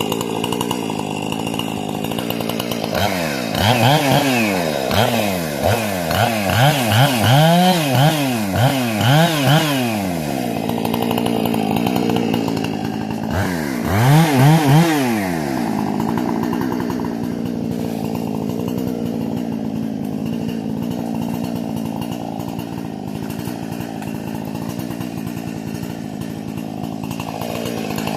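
Husqvarna 460 two-stroke chainsaw, with its carburettor and muffler modified, idling and then revved over and over in quick throttle blips for several seconds. It is revved again briefly about halfway through and settles back to a steady idle.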